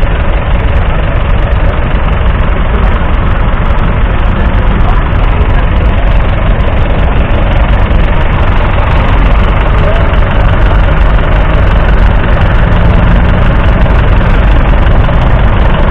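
1969 John Deere 1120's 2.7-litre three-cylinder diesel engine idling steadily.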